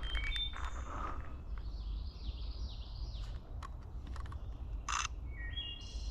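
Several songbirds singing: clear whistled notes early on, a quick run of downslurred notes in the middle, and a few short stepped whistled phrases near the end. A low rumble of wind or handling runs under them, and a short rasping burst comes about five seconds in.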